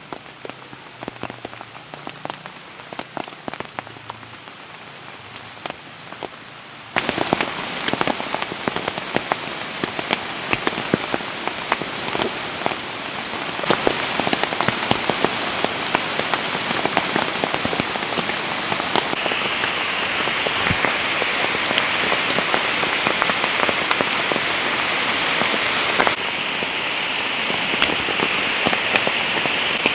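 Rain falling, with many separate drops ticking close by. About seven seconds in it turns suddenly much louder and denser, and it stays heavy after that.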